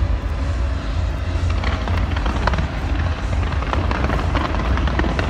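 Fireworks display going off in a dense barrage: a continuous low rumble of booms with many sharp crackling pops on top, growing thicker about a second and a half in.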